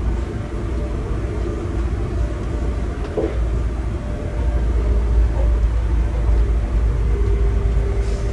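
Steady low rumble of a passenger train heard from inside the carriage, running at speed over the rails. A humming tone grows stronger near the end, and there is a brief knock about three seconds in.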